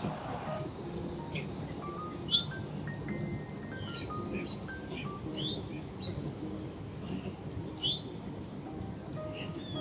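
A steady high insect trill of the cricket kind runs throughout, with short bird chirps over it; two chirps, one about two seconds in and one near the end, are the loudest moments. Soft background music of slow single notes plays beneath.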